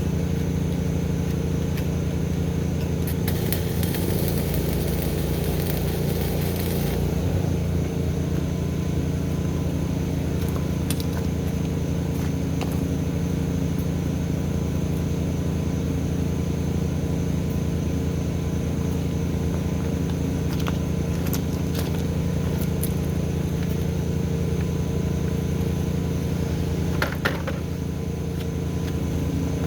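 An engine running steadily at an even speed. About three seconds in a hissing, crackling burst starts over it and lasts about four seconds, and a few sharp clicks come later, one louder near the end.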